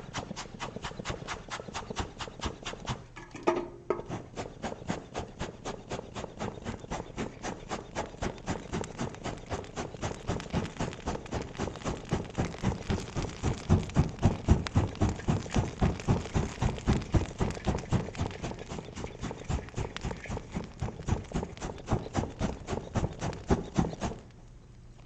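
Hand bellows pumped into a campfire to stoke it: a fast, even run of air puffs at about three a second. They pause briefly a few seconds in and stop shortly before the end.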